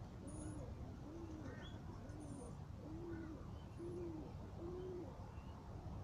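A bird's low hooting call, seven short hoots about three-quarters of a second apart, with a few faint high chirps from other birds.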